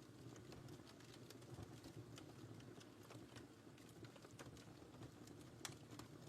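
Wood fire crackling faintly: scattered sharp pops and snaps, a few a second, over a soft low rumble of the flames.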